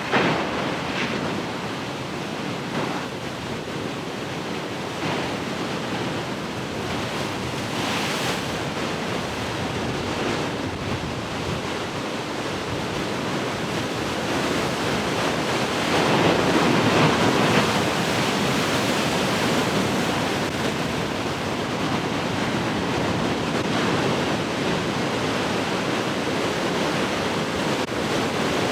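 Large ocean waves breaking and washing as surf, a continuous rush that swells and eases, loudest about halfway through, with some wind.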